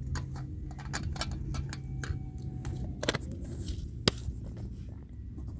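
Irregular clicks and knocks, the two sharpest about three and four seconds in, over a steady low rumble.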